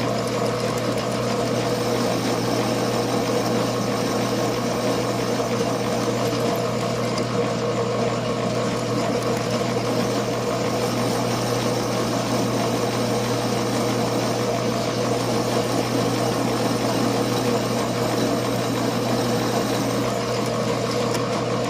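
Machine tool's motor running steadily while a freshly resharpened drill bit cuts a hole in a small repair part, an even hum with no change in pitch.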